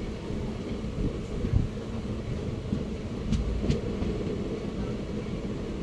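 Train running on the track: a steady low rumble, with two quick sharp clacks a little past halfway.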